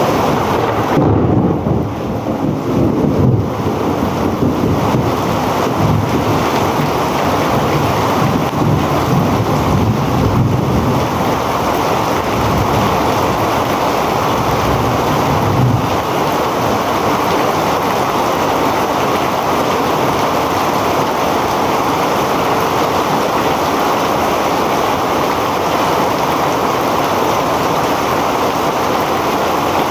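Heavy rain pouring steadily. A low, uneven rumble runs under it through the first half and then fades.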